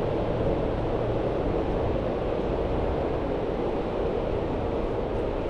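Steady city-street noise: a continuous hum of vehicle traffic and street bustle, with no single sound standing out.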